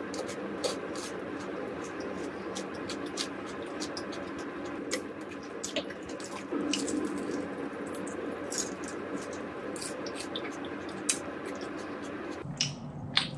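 Close-miked eating: a person chewing honey-glazed fried chicken, with frequent small sharp clicks and wet, sticky mouth sounds. A steady low hum sits underneath and drops out abruptly near the end.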